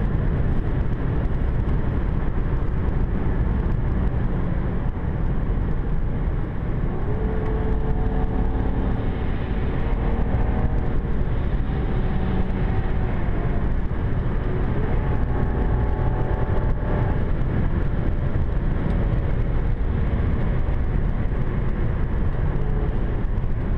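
BMW 550i F10 driving at speed, heard from on board: a steady deep road and drivetrain rumble. Through the middle stretch the twin-turbo V8's note rises a little and holds in a few steps.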